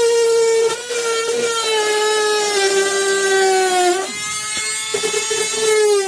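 Electric power tool motor running with a steady whine that slowly sags in pitch, stopping briefly about four seconds in and starting again.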